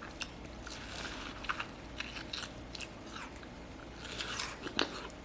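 A person biting and chewing juicy watermelon close to the microphone: soft wet crunches and scattered mouth clicks, with a denser stretch of wet noise about four seconds in.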